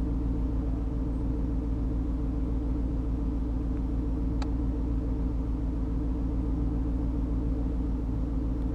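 Truck running with a steady low rumble that does not rise or fall. A single short click about four and a half seconds in.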